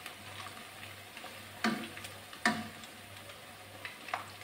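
Cassava and sweet potato pieces sizzling in a wok of hot oil. Metal tongs knock against the wok twice about halfway through and once more near the end.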